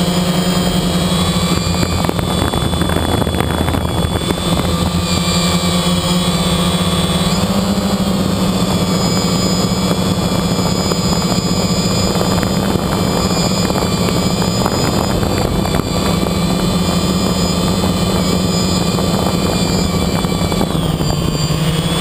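Quadcopter's electric motors and propellers buzzing steadily, heard from on board the drone; the pitch steps up about seven seconds in and dips briefly near the end as the throttle changes.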